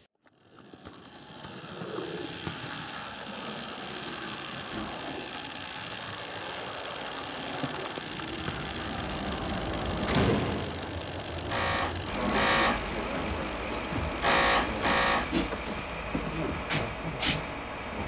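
Bachmann Midland Pullman OO-gauge model train running on its track, a steady rumble that grows slowly louder as it comes closer. From about halfway there are several short, loud bursts, some in pairs.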